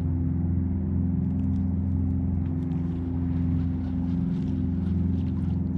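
Motor of a motorized fishing kayak running steadily, a constant low drone as the kayak travels across the water.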